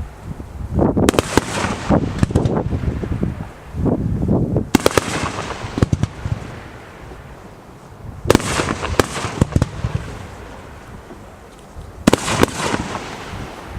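Fireworks going off at close range: four volleys of sharp bangs and crackling, one every three to four seconds, with rumbling between them.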